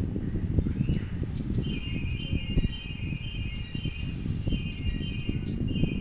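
Sparrows chirping in short, scattered calls, with a high buzzing trill running from about two seconds in, all over a constant low rumble.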